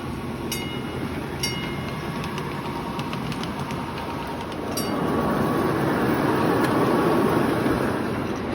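A train running on rails: a steady rumble with a few sharp metallic clinks. It grows louder about five seconds in.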